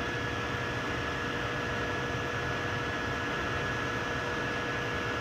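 3D printer running mid-print: a steady fan hum with a steady whine over it.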